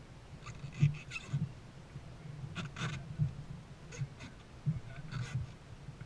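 Water splashing and lapping against a dragon boat: a handful of short, irregular splashes over low thuds and a steady low rumble.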